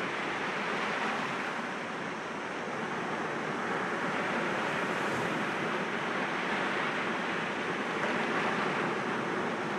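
Sea waves breaking against rocks: a steady wash of surf that swells and eases slightly, with no single wave standing out.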